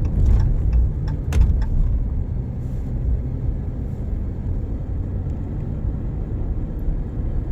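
Car driving along the highway: a steady low road and engine rumble, with a couple of short knocks in the first second and a half.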